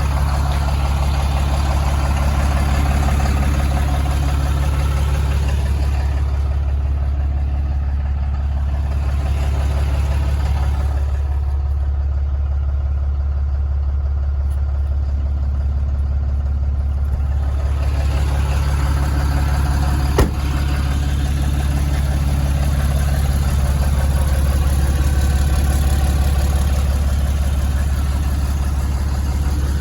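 Ram 5500's 6.7-litre Cummins inline-six diesel idling steadily, a constant low drone. Its higher sounds fade for several seconds in the middle and come back, and there is a single sharp click about twenty seconds in.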